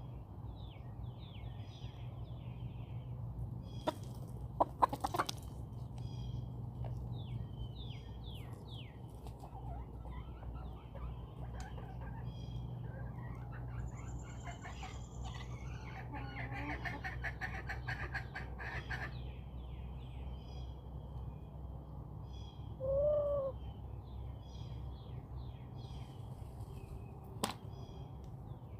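Backyard chickens clucking amid continual chirping birdsong, over a steady low rumble. A few sharp clicks come about four seconds in, and one short, loud chicken call sounds late on.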